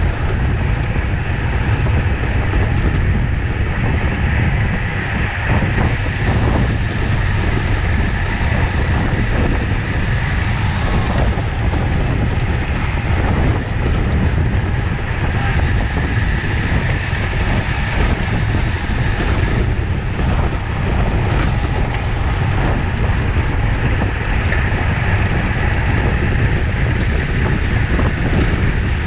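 Wind buffeting the microphone of a cyclist racing in a criterium: a steady, loud low rumble with a hiss above it.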